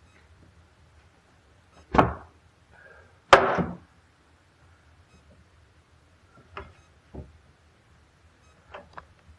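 A series of knocks and clunks: two loud ones about two and three seconds in, the second trailing off briefly, then four lighter knocks near the end.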